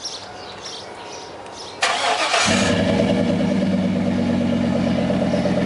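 2002 Chevy Silverado's 5.3-litre V8 started: the starter cranks briefly about two seconds in, then the engine catches and settles into a steady idle through a Flowmaster cat-back dual exhaust.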